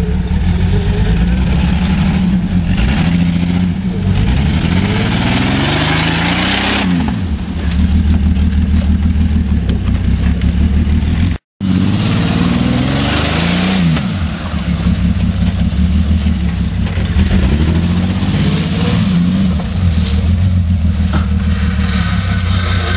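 A motor vehicle's engine running and revving: its pitch climbs and falls back several times, with steadier running in between, and it cuts out for an instant about halfway through.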